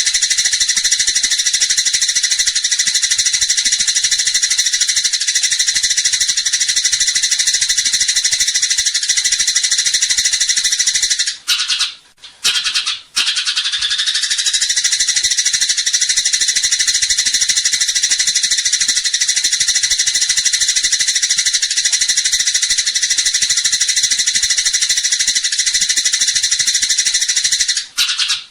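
Eurasian tree sparrows (burung gereja) chattering in a dense, rapid, unbroken stream of high chirps, the agitated 'fighting' chatter. It breaks off briefly twice around twelve seconds in.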